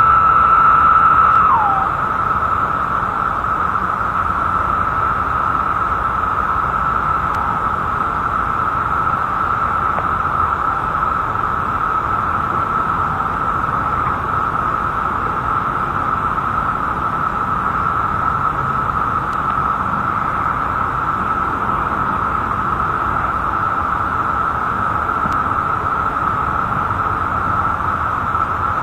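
Chorus of Brood X 17-year periodical cicadas: a loud, steady drone. In the first two seconds one close cicada's call stands out louder, then drops in pitch as it ends.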